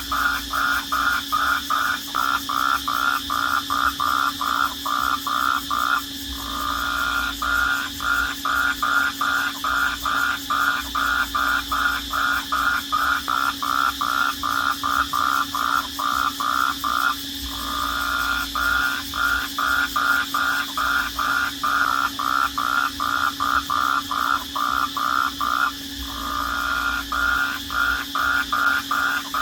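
Crickets chirping at night in a rhythmic chorus of short pulses, about four a second, over a steady high hum. Every ten seconds or so the pulses merge into a brief unbroken trill.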